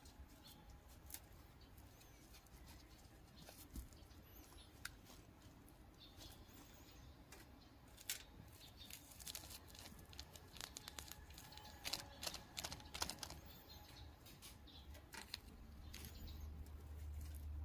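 Faint, scattered clicks, taps and rustles of kitchen scraps and their container being handled, busiest in the middle, over a low hum that grows louder near the end.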